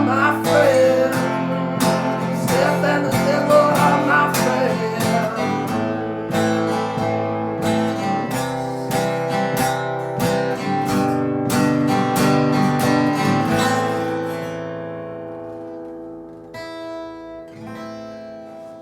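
Acoustic guitar strumming chords in a song's instrumental ending, getting quieter after about fourteen seconds, with a few last notes left ringing near the end.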